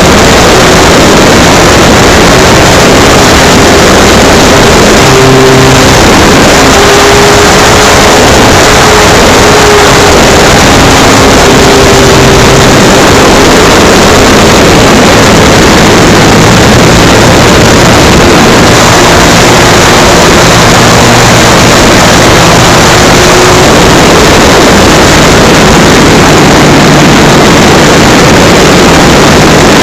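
Electric motor and propeller of an FMS Cessna 182 RC model plane in flight, heard close up from an onboard camera: a loud, steady rush of propeller and wind noise, with a faint motor tone that drifts up and down in pitch.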